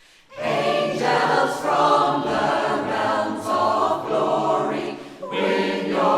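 Mixed choir singing a traditional carol unaccompanied, in sustained chords that begin about half a second in, with a short breath between phrases near the end.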